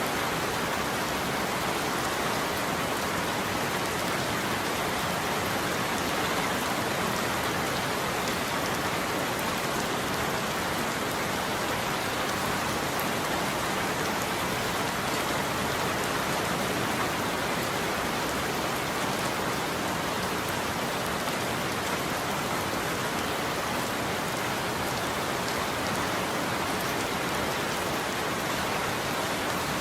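Steady heavy rain falling on a surface, an even unbroken hiss of drops.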